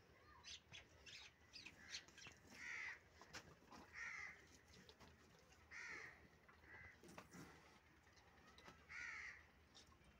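A bird calling faintly, about five short calls a second or two apart, over small scattered clicks.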